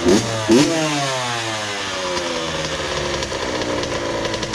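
2001 Honda CR80's two-stroke single-cylinder engine blipped twice near the start, its revs dropping back and settling into a steady idle. The idle screw has just been adjusted, and the result is a nice soft idle.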